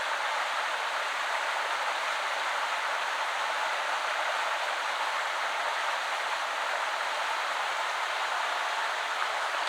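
A shallow woodland river running over stones in a steady, even rush of water.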